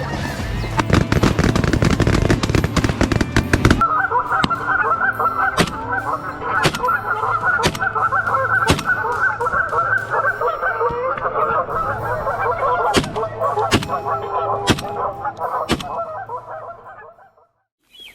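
A large flock of Canada geese honking in a dense, overlapping chorus, cut through by sharp cracks about once a second. The first few seconds are a thick wash of noise, and the honking fades out near the end.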